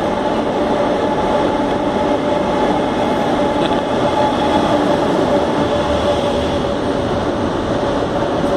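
KTX-Sancheon high-speed train pulling into the platform and rolling slowly past: a loud, steady running noise with a few steady whining tones over it.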